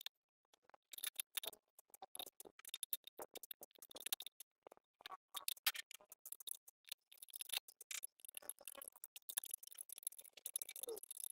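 Irregular light clicks and taps, like small metal parts and hand tools being handled on a workbench; no engine is running.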